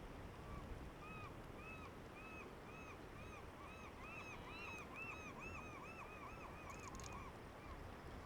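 A bird calling a long series of clear, arched whistled notes, about three a second, crowding together and speeding up in the middle before tailing off. A quick burst of camera shutter clicks comes near the end.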